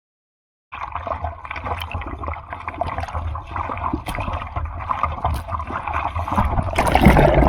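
Sea water sloshing and splashing close to the microphone, with a low rumble underneath. It starts abruptly under a second in and grows louder toward the end.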